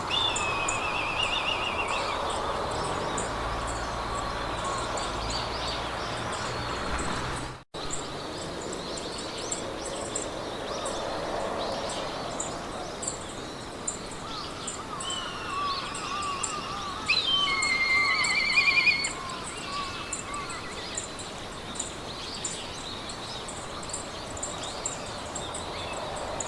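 Meadow ambience: several birds singing in varied phrases and trills over a steady hiss of wind through grass, with a fast, even, high-pitched ticking throughout. The sound drops out for an instant about a third of the way in, and the bird song is loudest about two-thirds in.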